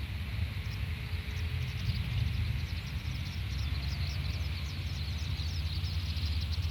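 Small RC plane's 2204 brushless motor and 6x4 propeller running steadily under power, faint against a deep wind rumble on the microphone. Many short, high bird chirps come in from about a second in.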